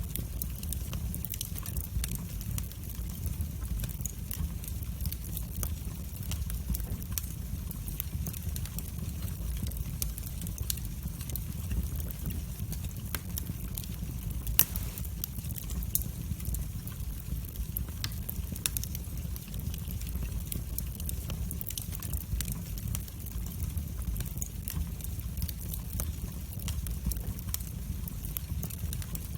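Wood fire burning in a fireplace, crackling with frequent small irregular pops over a steady low rumble. One louder pop about halfway through.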